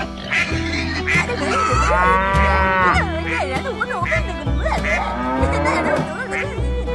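Background music with a steady bass line, over which a long cow's moo starts about two seconds in, followed by shorter gliding animal calls.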